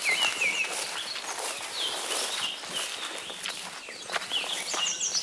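Small songbirds singing in short, repeated chirps, with a quicker run of higher notes near the end, over the swish and rustle of footsteps through low shrubs and grass.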